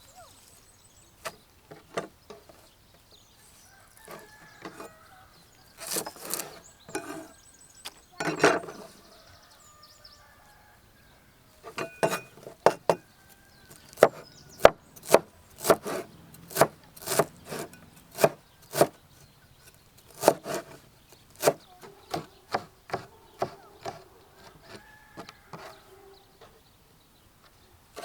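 Chopping strokes on wood: a run of sharp knocks, scattered at first, then coming steadily at about one or two a second in the second half.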